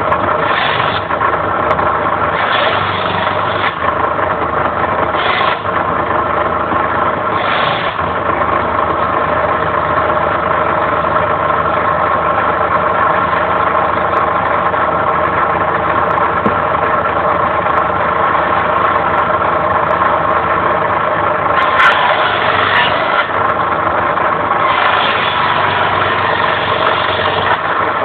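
Homemade circular saw, its disc blade driven by an old household water-pump electric motor, running with a steady whine, broken by several louder rasping stretches of a second or more as the blade cuts into firewood.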